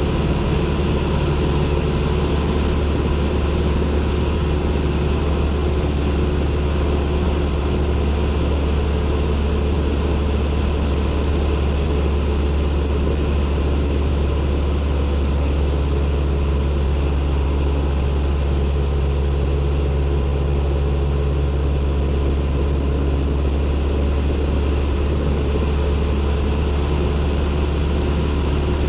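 Cessna 172N's four-cylinder Lycoming engine and propeller running steadily, a loud, even low drone heard from inside the cabin.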